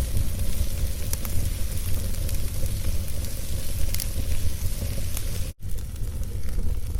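Wood fire burning with a steady low rumble and scattered sharp crackles and pops. The sound cuts out for an instant about five and a half seconds in.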